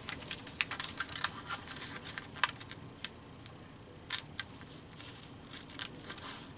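Small craft scissors snipping through paper in short, irregular cuts, with quick snips close together in the first half and fewer later on.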